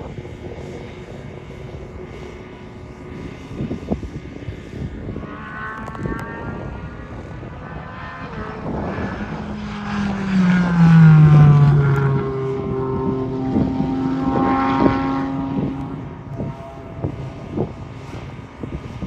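A car at full throttle on a race track drives past, its engine note loudest about eleven seconds in and dropping in pitch as it goes by. A second, steadier engine note follows and fades out about sixteen seconds in.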